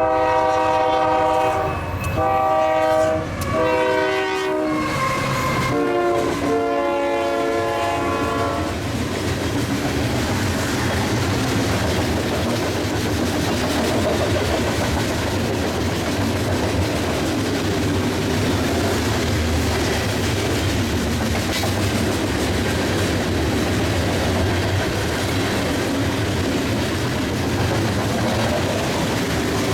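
Union Pacific locomotive's multi-chime air horn blowing four blasts, the last one long, which the filmer says sounds weird in the bitter cold. Then a loaded coal train rolls past with steady wheel and rail noise.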